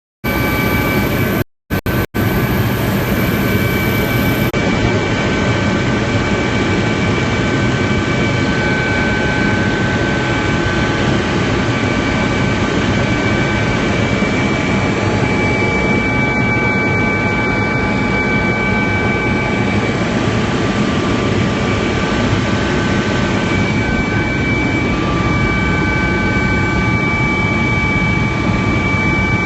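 Helicopter turbine engine and rotor noise, a loud steady rush with several high whining tones over it. It cuts in just after the start and drops out twice briefly about two seconds in.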